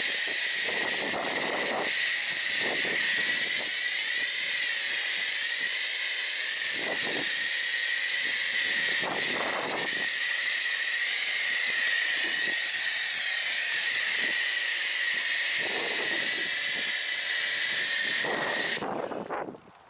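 Pressure washer spraying through an Autoglym Polar Blaster snow foam cannon: a steady high hiss of foam jetting from the nozzle, with a faint whistling tone in it, cutting off about a second before the end.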